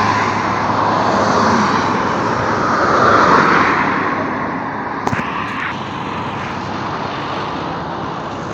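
Road traffic passing close by on a busy dual carriageway. It swells as vehicles go by near the start and again about three seconds in, then settles to a steadier hum, with a brief click about five seconds in.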